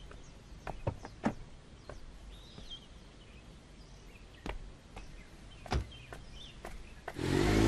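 Outdoor ambience with small birds chirping on and off and a few scattered sharp clicks and taps. Near the end a louder steady low hum comes in.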